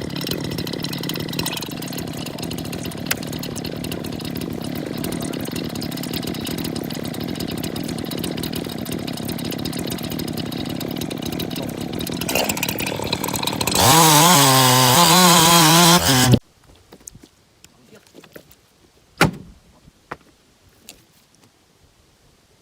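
Two-stroke chainsaw running steadily at a low idle, then revved loud for about two and a half seconds with its pitch wavering, and cut off suddenly. A few light knocks follow in the quiet.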